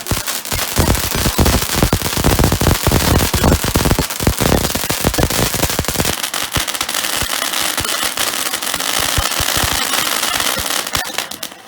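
Fireworks going off in a rapid barrage of bangs, turning about halfway through into a dense crackling that cuts off suddenly near the end.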